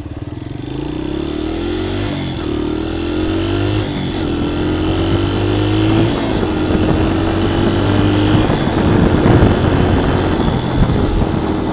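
Dirt bike engine accelerating up through the gears: the pitch climbs and then drops at each upshift, about four times. Wind noise on the microphone grows toward the end.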